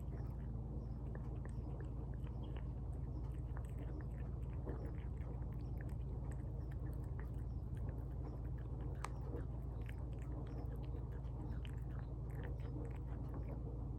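A cat chewing tuna: a dense, irregular run of small wet clicks and smacks, over a steady low hum.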